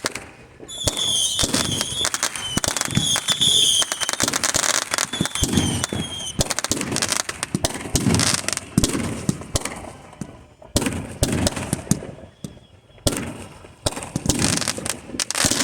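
Fireworks going off: a rapid string of bangs and crackling, with high shrill whistles from about one to six seconds in.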